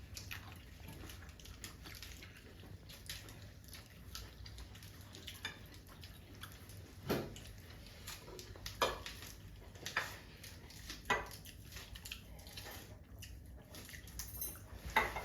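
Scattered light clinks and taps of cutlery and dishes, with five or six sharper ones in the second half, over a low steady hum.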